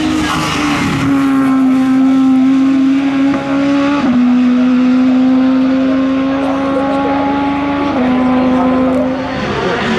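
Hill-climb race car's engine at full throttle, holding a steady high note with two sudden drops in pitch, about four and eight seconds in, as it shifts up a gear.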